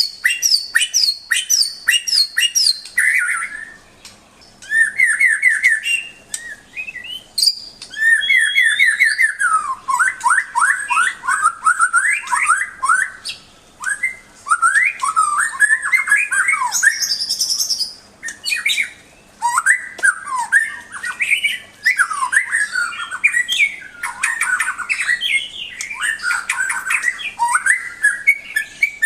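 White-rumped shama (murai batu) singing a long, varied song: fast runs of repeated notes and whistled sweeps, broken by short pauses every few seconds.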